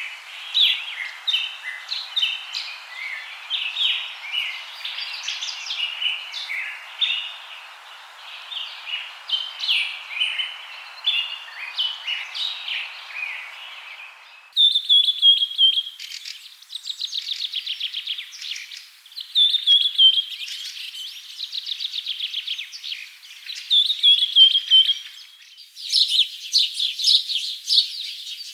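Many birds chirping and calling together over a steady hiss. About halfway through the sound changes abruptly to a clearer mix of repeated rapid trills and short falling whistles.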